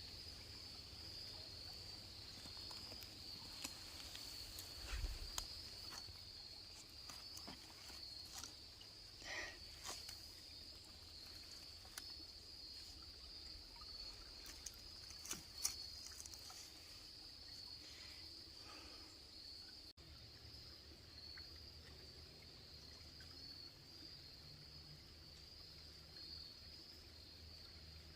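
Faint, steady high trilling of insects, with scattered light clicks and rustles during the first half.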